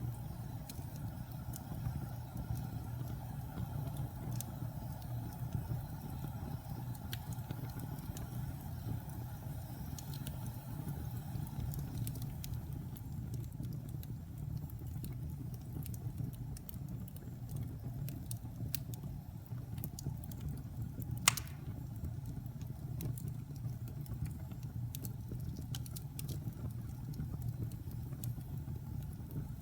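Wood fire burning in a fireplace: a steady low rumble with scattered crackles, and one sharper pop about two-thirds of the way through.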